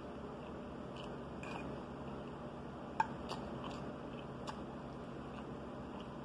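Close-up chewing and wet mouth sounds of a person eating soft meatloaf, with scattered small clicks and smacks and one sharp click about halfway through.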